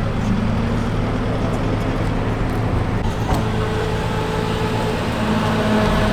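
Car engines running steadily, with a higher engine tone joining about halfway through and a brief click just before it.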